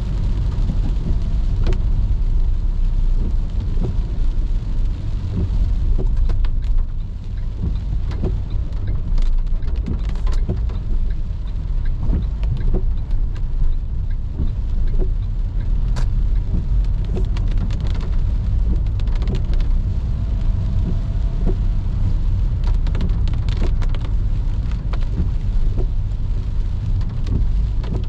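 Raindrops tapping irregularly on a moving car over a steady low rumble of the car driving on a wet road.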